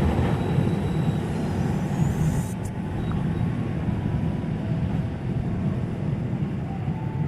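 Low, steady rumble of a passing passenger train, easing off gradually.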